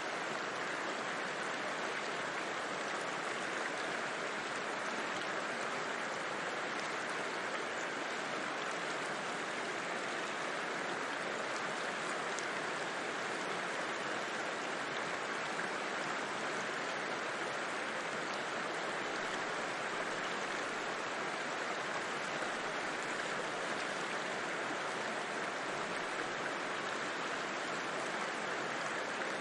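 A river flowing steadily: an even, unbroken rush of water, with no single splashes standing out.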